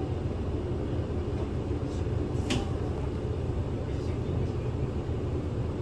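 Interior of a Kyoto City bus under way: a steady low engine and road rumble, with a single sharp click about two and a half seconds in.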